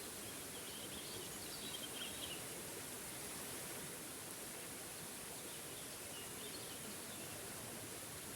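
Steady rush of a small forest waterfall, with a songbird chirping in short bursts about a second in and again about six seconds in.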